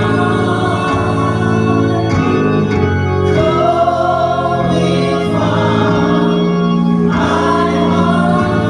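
Gospel music in church: an organ holds sustained chords while voices sing over it.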